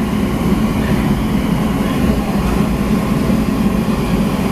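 Steady loud low rumble of running kitchen machinery, even and unbroken throughout.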